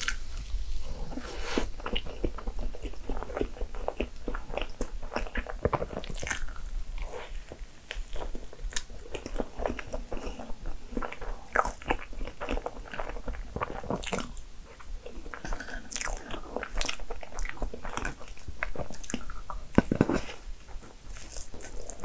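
A person chewing and eating soft crepe cake, with a steady run of small wet mouth clicks and smacks.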